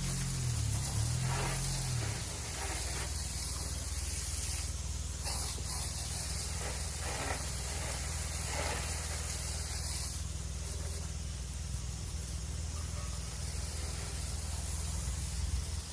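Water spraying from a garden hose onto a tractor as it is washed down: a steady hiss over a low, steady rumble, the spray changing about two-thirds of the way through.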